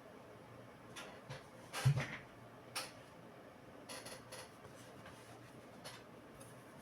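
Scattered light clicks and taps of small laptop parts and tools being handled, with one heavier knock about two seconds in.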